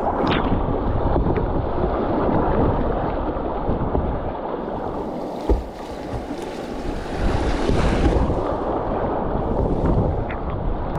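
River whitewater rushing around a kayak, with wind buffeting the microphone and a few brief sharp knocks.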